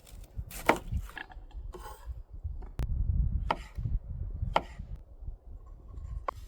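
A handful of sharp knocks and clacks at irregular intervals, with the sharpest a little under halfway through, over a low rumble.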